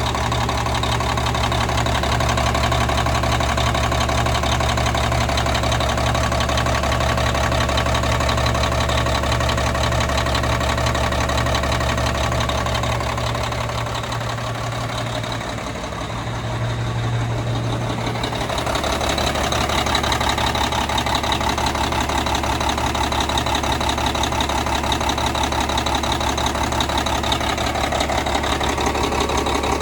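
Truck engine idling steadily, its note changing for a few seconds about halfway through before settling back.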